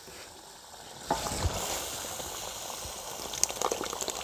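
Chicken karahi masala sizzling and frying in a hot karahi, the sizzle starting about a second in, with a few light ticks near the end.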